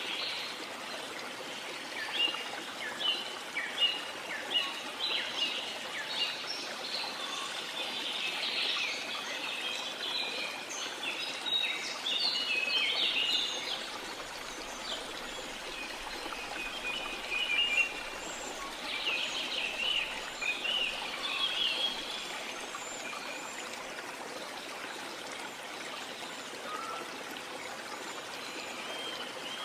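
Waterfall water rushing steadily, with many birds chirping and trilling over it, busiest in the first half and again in a flurry about two-thirds through.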